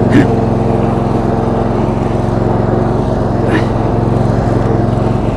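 The 22 hp V-twin engine of a Roper lawn tractor running steadily under way at an even speed.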